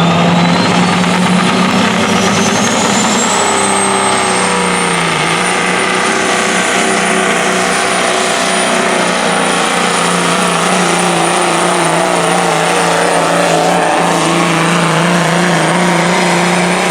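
Pro stock semi truck's turbocharged diesel engine running hard under load on a pull, with a high turbo whine that rises over the first few seconds and then holds steady.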